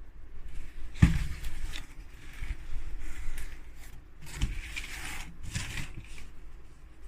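Handling noises: a knock about a second in, then irregular scraping and rustling.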